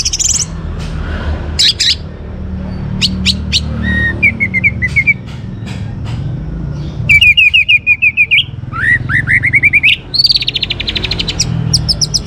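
Orange-headed thrush singing a string of varied phrases: fast runs of repeated chirps, a series of quick rising notes, and a rapid trill near the end. A steady low rumble sits underneath.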